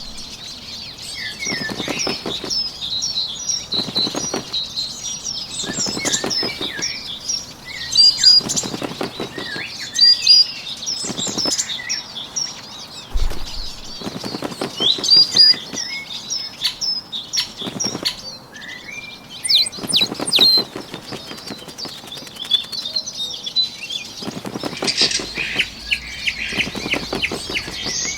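Sound-effect track of bird wings flapping in repeated short bursts, over a steady bed of small birds chirping and singing.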